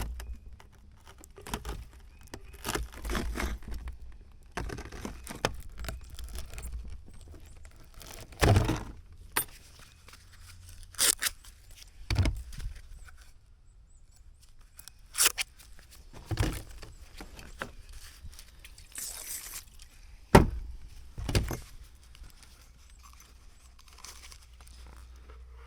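Hand work on a rubber radiator hose and a piece of pipe: intermittent clunks, taps and rustling, with a few sharp knocks.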